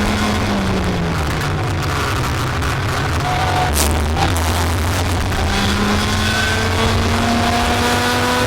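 Race vehicle engine recorded onboard under heavy low rumble and buffeting on the microphone. The engine note drops as it backs off, then climbs steadily from about five and a half seconds in as it accelerates.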